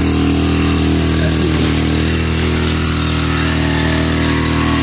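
Small petrol engine of a power sprayer running steadily at a constant speed.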